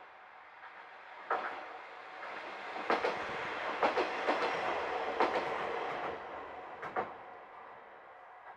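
Train running along the track, wheels knocking over rail joints in a clickety-clack; it builds up about two seconds in and fades away after about six seconds.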